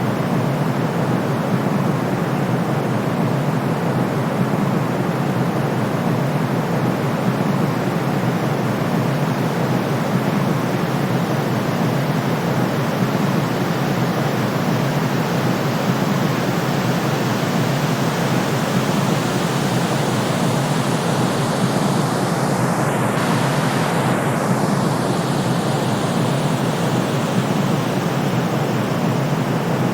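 Steady synthetic sleep noise: a constant rushing hiss, heavier in the low end than in the treble, like pink noise. Its top end shifts with a faint sweep about three quarters of the way through.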